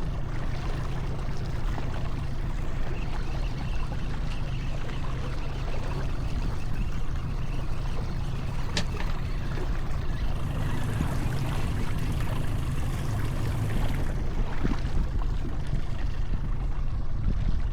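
Steady low rumble with water splashing and trickling around a small fishing boat, and a single short click about nine seconds in.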